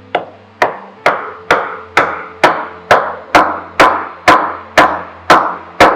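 Steady mallet blows on wood, about two a second, knocking the two halved pieces of a tee halving joint together.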